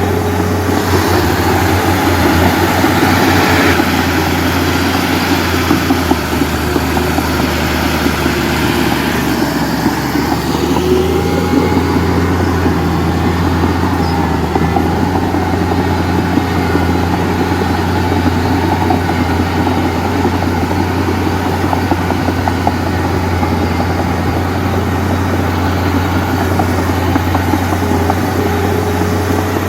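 Heavy diesel engine of a working machine running steadily with a deep hum.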